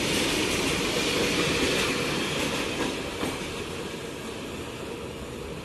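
Freight train's covered goods wagons rolling past on the rails, a steady rumble with a couple of knocks about three seconds in, then fading away as the train pulls off into the distance.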